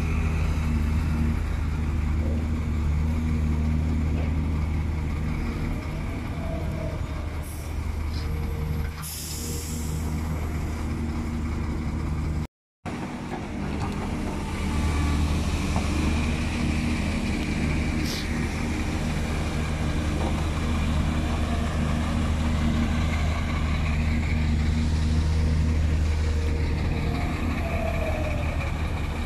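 Heavy diesel engines of an excavator and dump truck running steadily, with a short hiss of released air about nine seconds in. All sound drops out for a moment a little before halfway.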